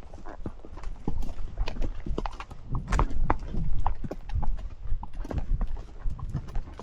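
A horse's hooves clip-clopping on a trail: an uneven run of hoof knocks, with a low rumble underneath.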